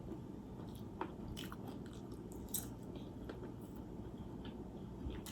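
A person chewing a mouthful of hotdog close to the microphone, with small irregular mouth clicks and crunches over a steady low hum.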